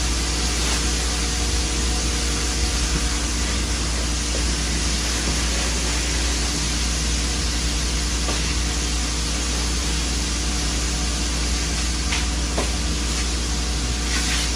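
Hot grease in a frying pan sizzling steadily as food fries, a constant crackling hiss with a low hum underneath.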